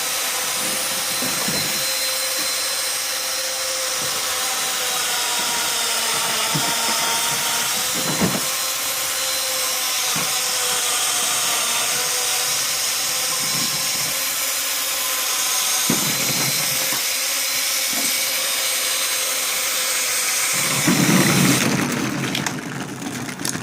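An electric motor running steadily with a whine, with a few knocks along the way; near the end it grows louder with a low rush, then cuts off.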